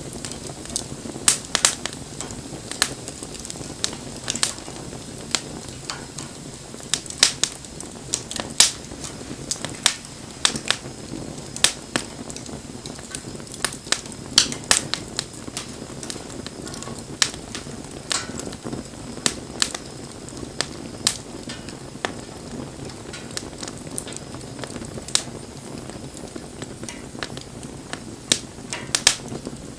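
Wood fire crackling and popping, with irregular sharp snaps over a steady hiss of the flames.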